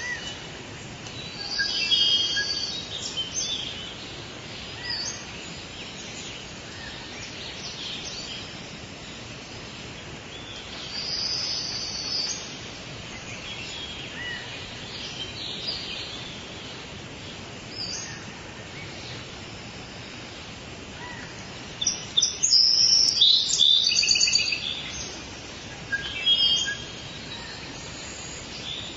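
Birds singing and calling in forest ambience, over a steady hiss-like background. Several bursts of high chirping phrases come and go, the loudest about three quarters of the way through.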